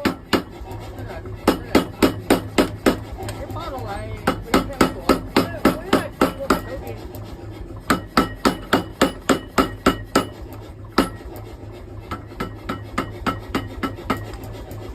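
Hammer blows forging a hot steel axe blank, coming in quick runs of about five strikes a second with short pauses between runs, the strikes lighter near the end.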